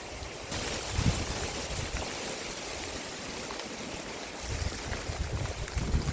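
Rainstorm: a steady hiss of rain and wind that swells about half a second in, with low gusts buffeting the microphone about a second in and again near the end.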